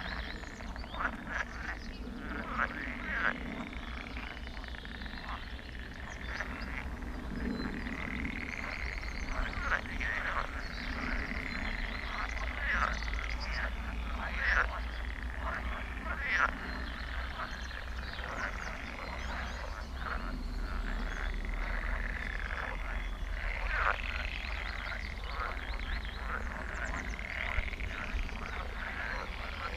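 A dense chorus of frogs croaking, with many short calls overlapping steadily and no let-up.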